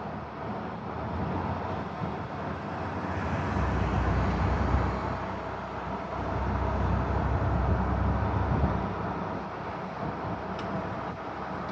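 Street traffic noise with a low engine rumble that swells twice, about a third of the way in and again past the middle.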